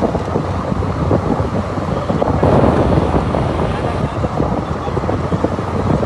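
Wind buffeting the microphone: a loud, steady, rumbling rush with no clear pitch.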